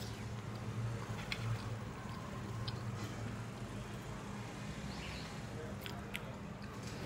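Soft chewing with a few small mouth clicks over a steady low hum.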